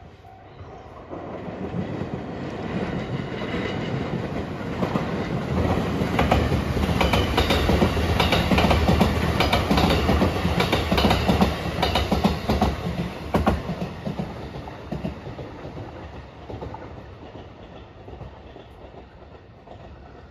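Electric multiple-unit train passing close by, wheels clattering over the rail joints. It builds up over the first few seconds, is loudest in the middle, and fades away over the last several seconds.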